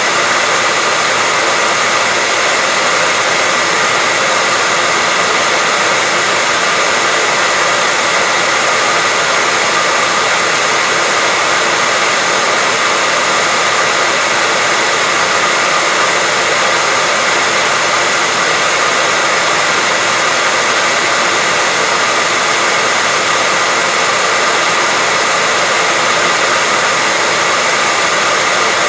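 Hair dryer running steadily without a break: a constant rushing whoosh of air with a faint steady whine in it.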